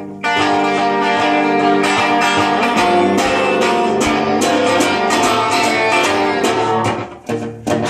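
Acoustic guitar strummed in steady chords as an instrumental break between sung verses. The strumming thins out briefly near the end.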